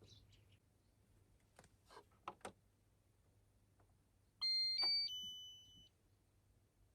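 A few faint clicks, then a short three-note electronic chime from a device about four and a half seconds in. It steps up and then down, and the last note fades out.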